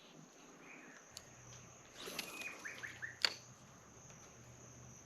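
Quiet mangrove-creek ambience with a steady insect drone and a short run of bird chirps about two seconds in, then a single sharp click a little after three seconds. A faint low hum starts about a second in, the electric trolling motor holding the boat on spot lock.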